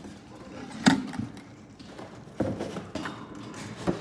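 A few sharp knocks and clicks from hands handling things, the loudest about a second in, then three more spaced through the rest.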